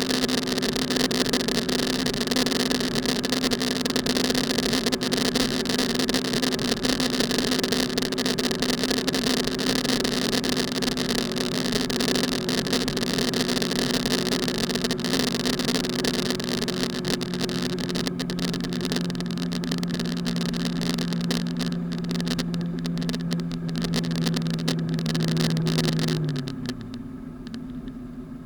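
A car driving: a steady engine hum with road and wind noise. Near the end the engine note falls in pitch and the noise drops away as the car slows.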